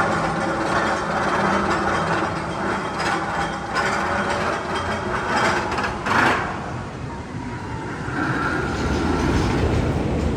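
Magnum XL 200 steel roller coaster train rattling and clanking along its track, with one loud clank about six seconds in.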